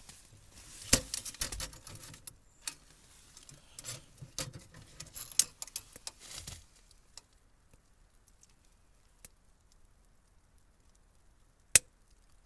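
Rustling and clicking, like objects being handled, for about the first six and a half seconds, then a few separate sharp clicks, the loudest near the end.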